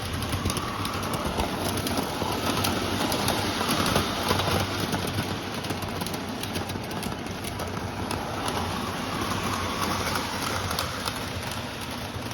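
K-Line O-gauge Trainmaster model diesel locomotive running on three-rail track. The wheels make a steady rolling noise with many quick clicks over the rail joints, under a low steady hum.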